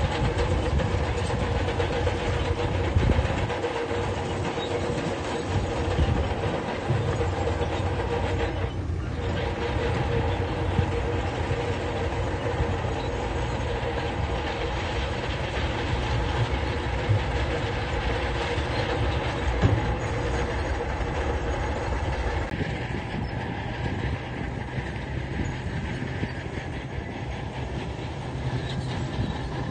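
Heavy earthmoving machine's diesel engine running steadily, with a low rumble and a constant tone. The higher part of the sound drops away about two-thirds of the way through.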